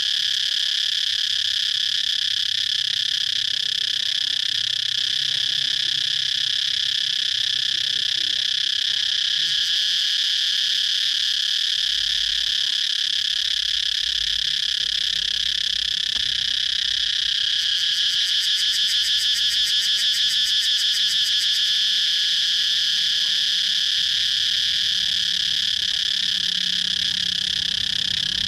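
Cicadas calling in a steady, continuous chorus of shrill, high-pitched buzzing. About two-thirds of the way through, a rapid pulsing call rises over the drone for a few seconds.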